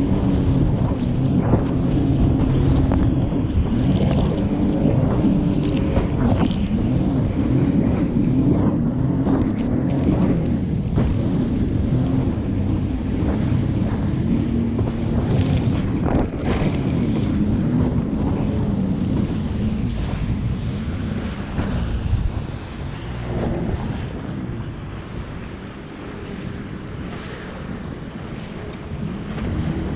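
Jet ski engine running, its note wavering up and down, with wind buffeting the microphone and water splashing. It gets quieter after about twenty seconds.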